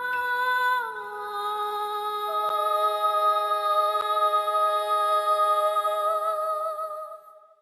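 Three girls' voices holding the song's final long note in harmony, with vibrato. The chord shifts down about a second in and another voice joins lower a little later, then the sound fades out just before the end.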